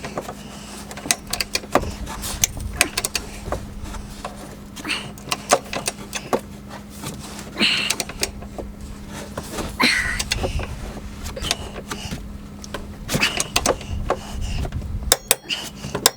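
Hand tools clicking and knocking on metal during the hitch installation: irregular sharp clicks and a few short scrapes, with a quick run of even clicks near the end, over a steady low hum.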